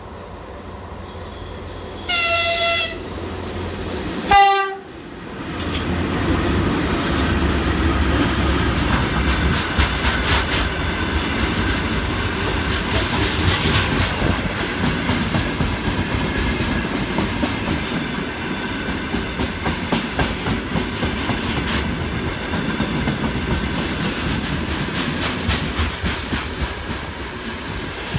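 A VL11 electric locomotive sounds two short horn blasts about two seconds apart, the second lower-pitched and louder. Its freight train of open gondola wagons then rolls past close by, with a steady rumble and the rhythmic clack of wheels over rail joints.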